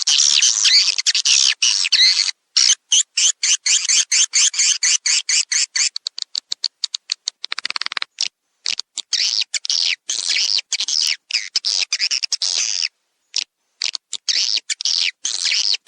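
Swiftlets twittering on a lure-call recording made to draw swiftlets into a nesting house: dense high chirps in bursts that cut off abruptly into silent gaps, with a run of short, quick chirps about halfway through.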